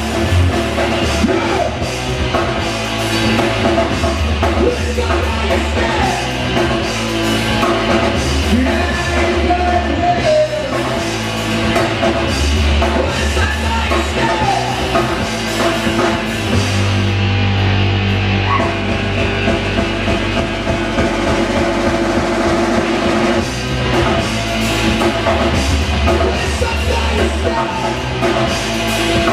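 A live rock band playing loud, steady rock music, with the drum kit prominent.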